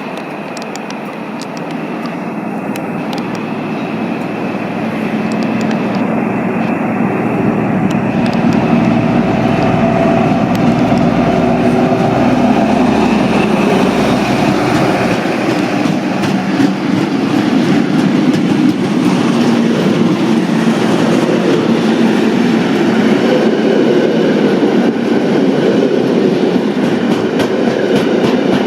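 A train running on the track, growing louder over the first several seconds and then holding steady at a loud level.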